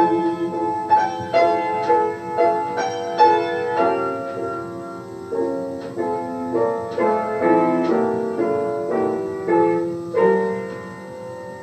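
Solo piano accompaniment playing an interlude between the sung verses of a ballad, a stream of notes struck in quick succession that grows quieter toward the end, from an old home tape recording.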